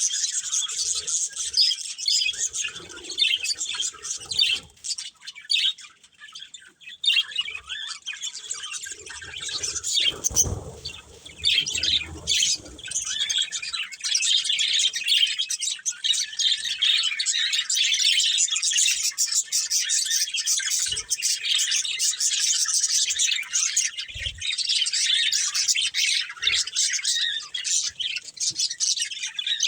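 A pair of budgerigars chirping and chattering almost without pause, in quick, busy runs of high notes. There is a short lull about six seconds in, and a low thump near ten seconds.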